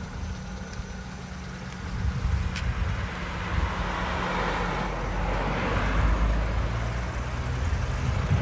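Road vehicle driving: a steady low engine rumble with road noise, the road noise swelling louder in the middle and then easing.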